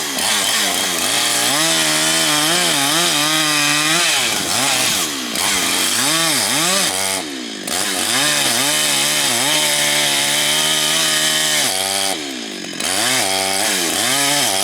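Large Husqvarna two-stroke chainsaw running at high revs while cutting wood, its pitch wavering and sagging as it works in the cut. The throttle eases off briefly three times, near the middle and towards the end.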